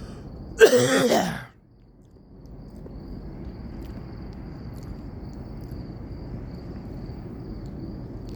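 A man's short, loud sigh about a second in, then a steady low rumble with crickets chirping high in the background.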